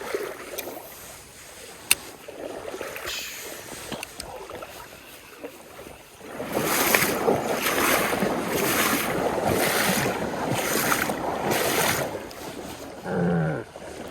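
Legs wading through stream water: a run of rhythmic splashing swishes, about one a second, that starts about six seconds in after a quieter stretch of flowing water. A single sharp click comes about two seconds in, and a short voiced sound falls in pitch near the end.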